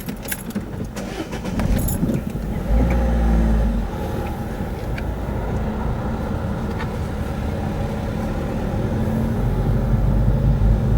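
Road traffic: cars driving past close by with engines running, growing louder as vehicles go by. A few short clicks and rattles come in the first two seconds.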